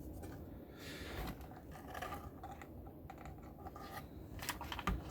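Light clicking and scratching of test leads and small components being handled on a circuit board while an inductor is measured, with sharper clicks near the end.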